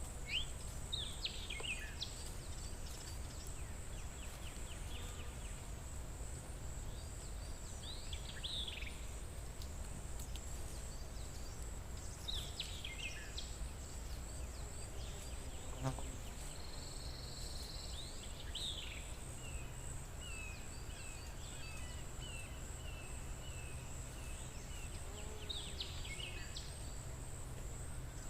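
Outdoor forest ambience: a songbird repeats a short, falling song phrase about every five seconds over a steady, high insect trill, with a low rumble underneath.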